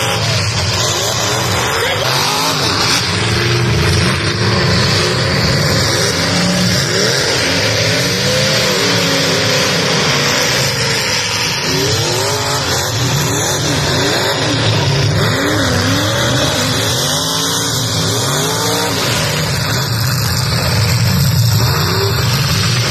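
Several demolition derby cars' engines revving up and down at once, a loud continuous din of overlapping rising and falling engine pitches.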